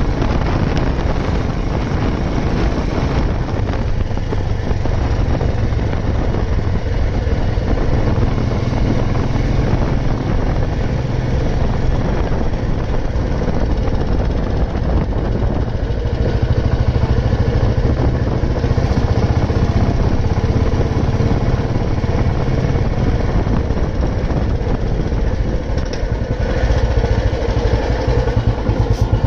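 Old Royal Enfield Bullet 350's single-cylinder four-stroke engine running steadily as the motorcycle is ridden, getting a little louder about halfway through and again near the end.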